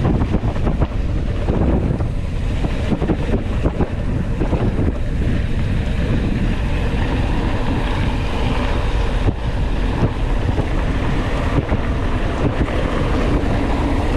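Wind buffeting the microphone of an onboard camera on a mountain bike in motion, a loud steady rush heaviest in the low end, with a few sharp knocks from the bike jolting over the trail.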